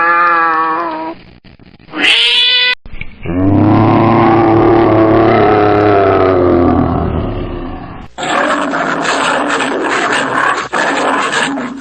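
Lion roaring: one long, drawn-out call that rises and falls in pitch, starting about three seconds in, followed from about eight seconds on by a rougher, noisy stretch. It comes after the tail end of two shorter pitched calls near the start.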